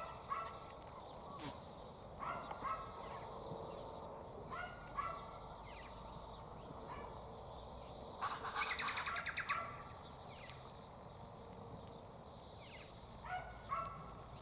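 Birds calling: short pitched calls come every few seconds, and a louder harsh chattering burst about eight seconds in lasts just over a second.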